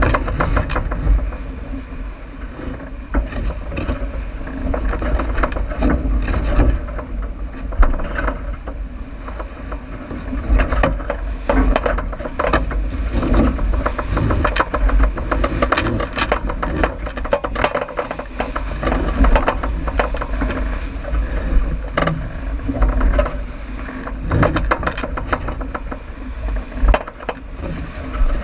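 Wind buffeting the microphone and water rushing past the hull of a J/80 sailboat sailing downwind: a steady low rumble broken by frequent short rattles and knocks.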